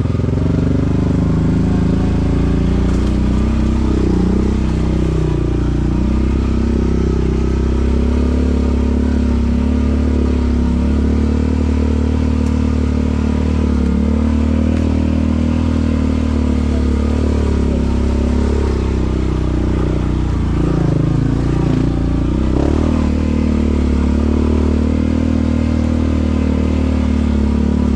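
Quad bike engine running steadily as it rides along, its pitch wavering slightly with the throttle.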